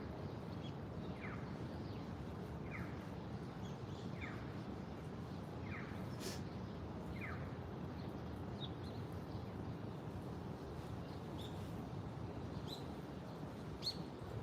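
A bird repeats a short falling call about every second and a half, then gives a few brief high chirps. Under it runs a steady low background hum.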